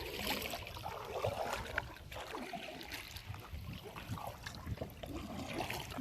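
Kayak on the river, with water trickling and dripping and small splashes, typical of paddle strokes.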